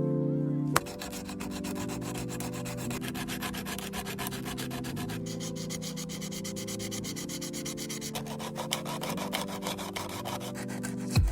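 Sandpaper rubbing on a toy model car in rapid, repeated strokes, beginning under a second in, over background music.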